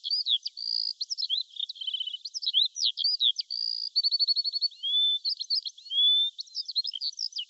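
A songbird singing a fast, varied song of high-pitched chirps, rapid trills and short rising whistles, with no lower sounds beneath it.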